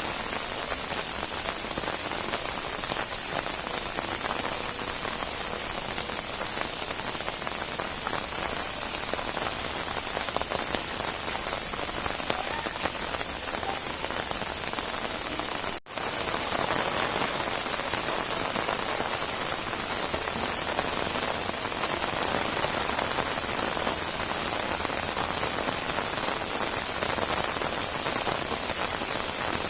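Steady heavy rain falling, a dense even patter of drops, which drops out for an instant about halfway through.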